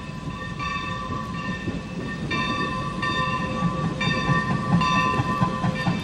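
Skunk Train rolling on the rails, a rumble under steady high-pitched tones that cut in and out, getting louder toward the end.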